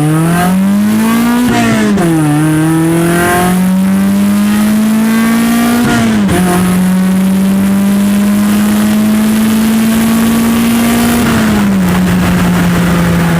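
Honda H23A 2.3-litre DOHC VTEC four-cylinder at full throttle, loud with an exhaust leak from a broken flex pipe. The revs climb and fall sharply about a second and a half in and again about six seconds in as it is shifted up, then climb slowly in the higher gear before dropping near the end as the throttle comes off.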